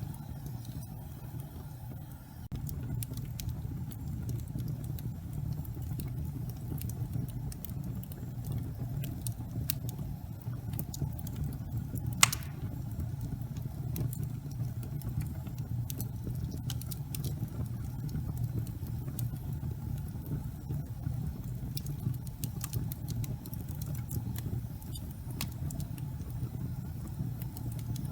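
Gas fireplace fire burning with a steady low rumble of flame, sprinkled with light crackles and one sharp pop near the middle. The rumble grows a little louder about two seconds in.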